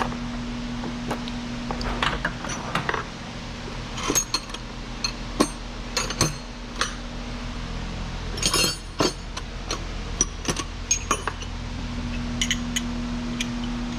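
Metal hand tools clinking and tapping in short scattered clicks, over a steady low hum, during spark plug removal.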